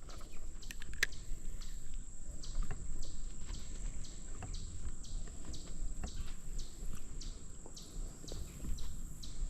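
Footsteps, about two a second, over a steady high-pitched insect drone.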